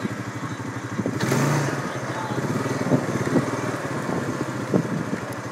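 ATV (quad) engine idling with a steady fast pulse, with a brief louder rush about a second in.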